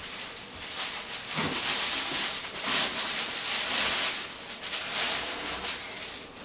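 Foil-covered disposable aluminum baking pan crinkling and rustling in a run of bursts as it is handled and pushed into an oven.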